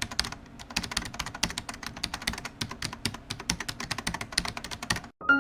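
Computer keyboard typing: a fast run of key clicks, several a second, that stops abruptly near the end. Piano music begins just after it.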